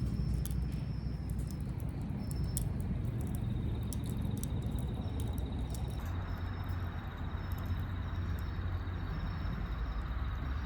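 Wood fire crackling in a FIREBOX camp stove: irregular sharp pops and snaps over a low steady rumble. A faint high insect trill joins about a third of the way in.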